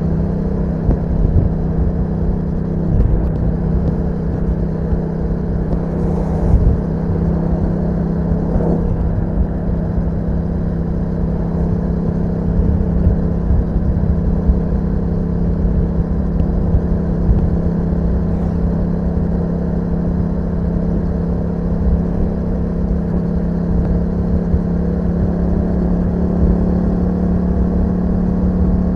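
2021 Yamaha MT-07's parallel-twin engine through an Akrapovic exhaust, running at steady revs under way, its note holding nearly level throughout.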